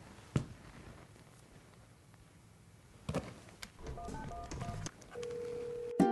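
A telephone call being placed: a click, then a quick run of touch-tone keypad beeps about four seconds in, followed by the steady ringing tone of the call going through.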